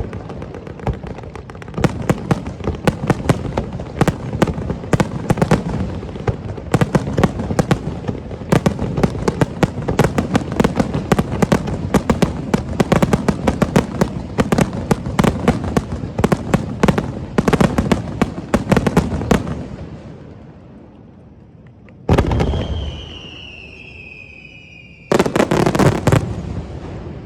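Aerial fireworks display: a rapid-fire barrage of shell bursts, many sharp bangs in quick succession, dies away about twenty seconds in. A single loud burst follows with falling whistle-like tones, then another short flurry of bangs near the end.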